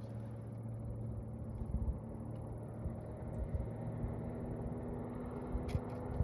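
Motorboat engine running steadily with a droning hum that drifts slightly in pitch, with a few light knocks near the end.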